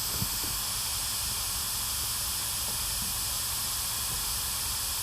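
Steady radio static hiss, as from a spirit box scanning through stations, with a faint short blip just after the start.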